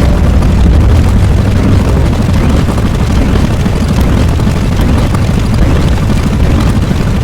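A loud, steady rumbling noise, heaviest in the low end, that starts right after a short silence and holds without break.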